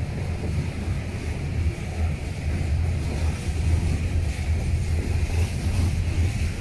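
Freight train of covered hopper cars rolling past close by: a steady low rumble of steel wheels on the rails.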